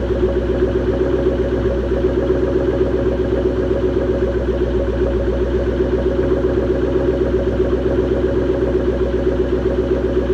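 Ford SVT Cobra's 4.6-litre V8 idling steadily through a Borla ATAK exhaust with a catted X-pipe, the exhaust note pulsing evenly with no revs.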